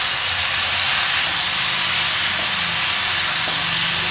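Potato, onion and capsicum stir-fry sizzling steadily in a hot non-stick frying pan as it is mixed with a spatula, just after the sauces, soy sauce last, have gone in.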